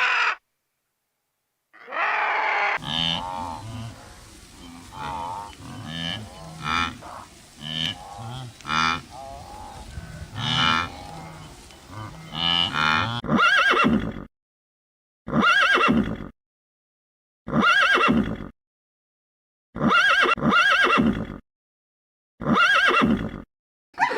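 Farm animal calls: a stretch of mixed, overlapping calls, then one short call repeated six times with silent gaps between.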